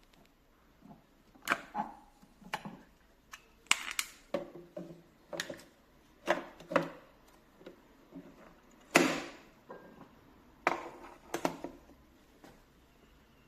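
About a dozen irregular clicks and knocks as parts of a capsule coffee machine are handled, the loudest one about nine seconds in.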